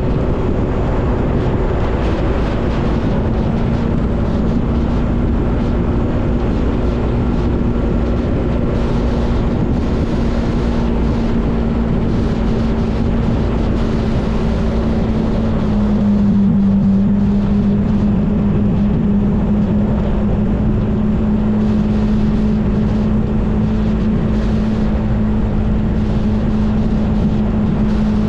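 Motorbike engine running steadily at cruising speed over a constant rush of noise. About sixteen seconds in, its pitch dips briefly and then picks up again as it gets a little louder.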